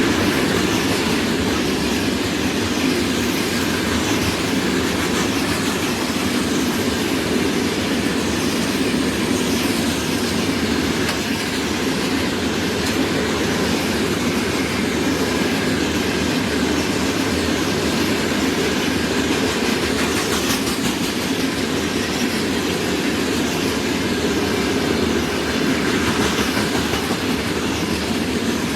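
A freight train rolling steadily past at speed, its wagon wheels clattering on the rails.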